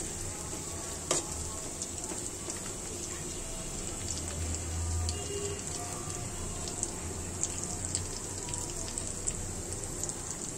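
Thin strips of chicken breast frying in oil in a pan: a steady sizzle with scattered small crackles, and one sharper click about a second in.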